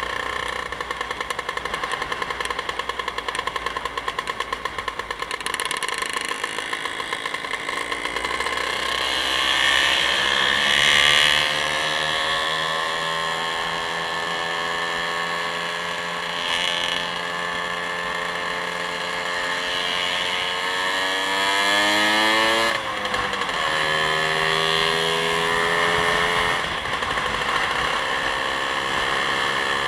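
A vehicle engine running on the move, its pitch climbing steadily about two-thirds of the way through, then dropping sharply and climbing again.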